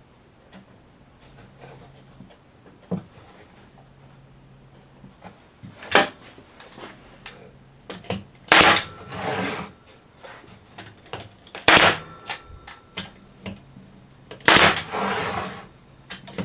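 Wooden workpieces and clamps being handled on a bench: four sharp clacks about three seconds apart, two of them followed by about a second of scraping.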